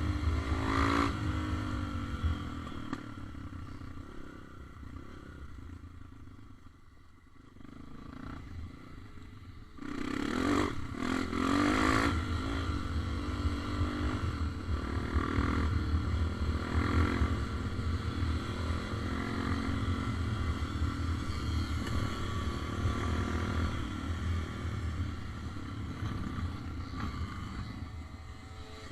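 Motorcycle engine running while riding, dropping off for a few seconds and then picking up again about ten seconds in.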